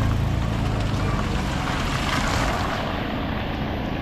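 Heavy rain falling steadily, with a low rumble of wind on the microphone; the hiss swells briefly about halfway through.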